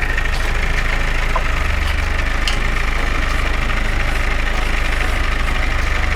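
Engine idling steadily, with a low even rumble and a steady high-pitched whine over it.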